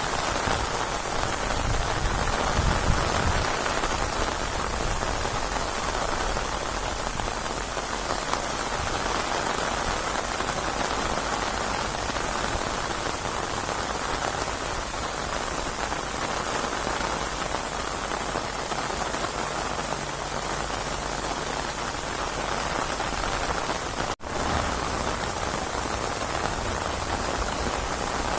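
Steady rain falling and pattering on surfaces, an even hiss with no single drops standing out. It cuts out for a split second near the end, an edit splice, before carrying on unchanged.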